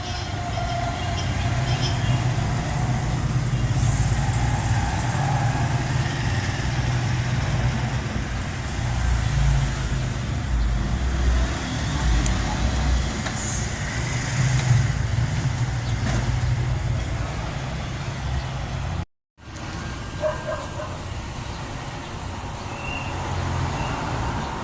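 Steady low rumble of background noise, cutting out abruptly for a moment about nineteen seconds in.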